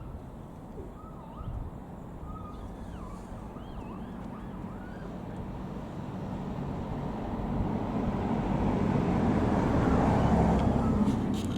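Hitachi Class 800 bi-mode train approaching on its diesel engines, its running noise growing steadily louder over the second half and peaking near the end.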